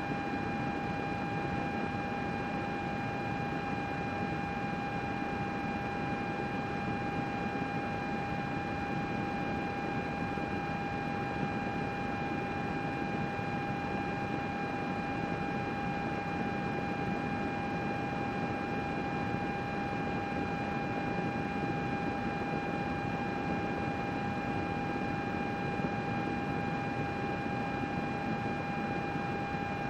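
Computer's cooling fans running steadily: an even whoosh with a constant whine over it.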